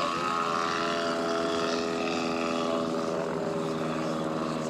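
Light single-engine propeller airplane's piston engine running, a steady pitched engine note with many even overtones.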